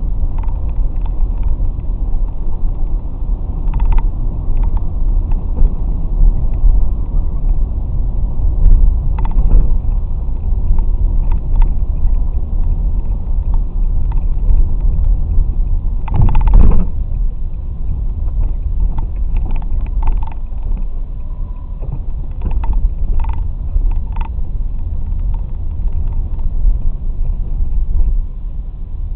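Honda VTX1800 cruiser on the move: a heavy, steady low rumble of its big V-twin engine mixed with wind noise, with a louder swell a little past halfway.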